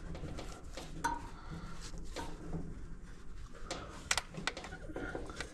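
Light metallic clinks and clicks of dryer parts being handled as a blower wheel is threaded onto its shaft by hand, with a few sharper ringing metal ticks about four seconds in.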